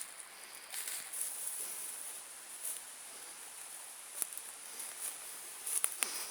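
Steady high-pitched insect buzz, with scattered light footsteps and rustles, a few of them close together near the end.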